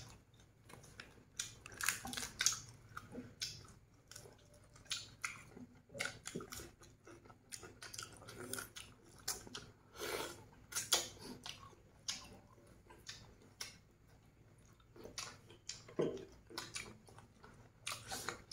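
Two people chewing roast duck close to the microphone: irregular mouth smacks and clicks as they bite and chew.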